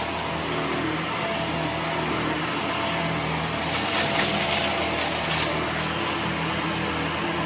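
Vacuum cleaner running steadily, a low hum under a broad hiss, with the hiss growing brighter for about a second and a half around the middle.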